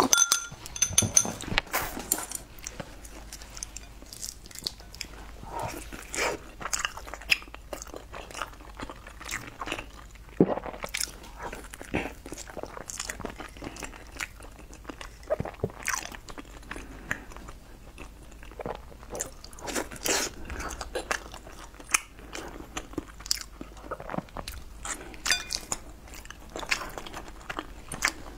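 Close-miked eating: irregular biting, chewing and wet mouth sounds, with sharp clicks scattered throughout.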